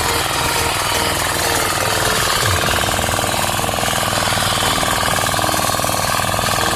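Locally made diesel hand tractor (kuliglig) running steadily, its engine giving a fast, even knocking beat.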